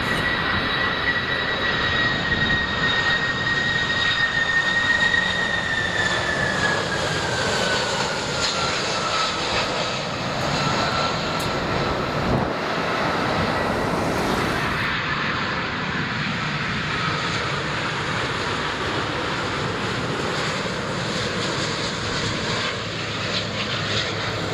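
Jet airliner's engines at go-around thrust, loud and steady, as the aircraft aborts its landing and climbs away. A high whine in the roar holds level, then drops in pitch from about six seconds in as the plane passes and moves off.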